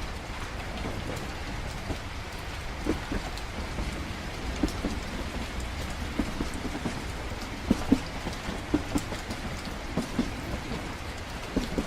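Train-at-night ambience: a steady low rumble with rain pattering throughout and scattered light knocks and ticks at irregular intervals.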